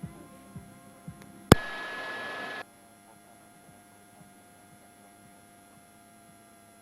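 Faint electrical hum on the helicopter's intercom audio, with a sharp click about a second and a half in, then about a second of hiss that cuts off suddenly.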